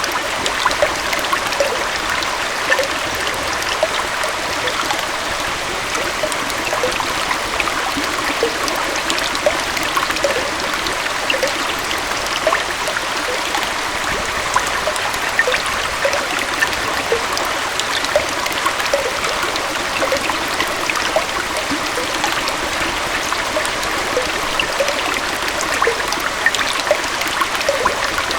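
Gentle waterfall and stream running steadily: a continuous rush of flowing water with frequent small bubbling plops and splashes scattered through it.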